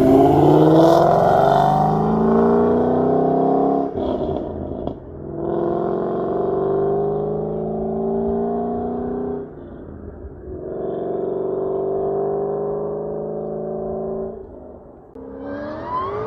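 Shelby GT500's supercharged V8, breathing through long-tube headers, an off-road X-pipe and factory GT500 mufflers, pulling hard through the gears. The exhaust note climbs steadily in pitch in each gear, with a brief dip at each of three upshifts, about four, ten and fifteen seconds in.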